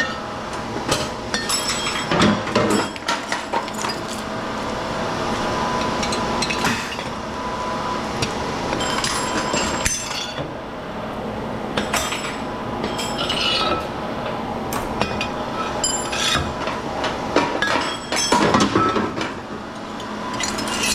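Scattered metallic clinks and knocks over a steady hum as a hydraulic cutter cuts steel bolts and nuts out of scrap cast aluminum and the pieces are handled.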